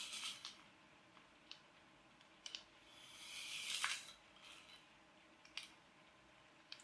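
Faint high-pitched whirring of a micro RC toy car's tiny electric motor and gears as it drives in spurts: a short burst at the start, then a longer one that builds up and cuts off at about four seconds. Light clicks fall in between.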